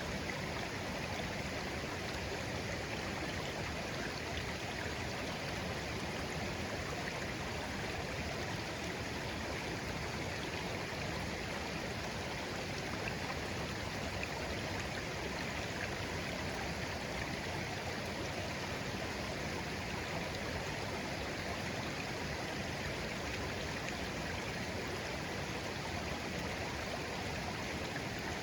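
Shallow, clear stream (a murmuring brook) flowing gently with a steady, unbroken babble of water.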